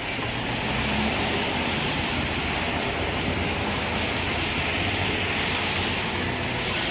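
Steady hiss from tyres on a wet road, over a constant low rumble of a vehicle driving.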